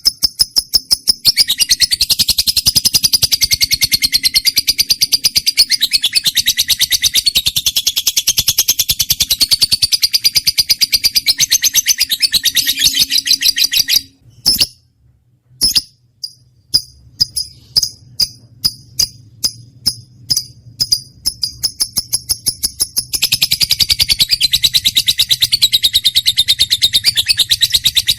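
Lovebird chattering song: long runs of rapid, high twittering chirps. A little over halfway it breaks off briefly, gives a string of separate sharp chirps about three a second, then goes back to the fast chatter.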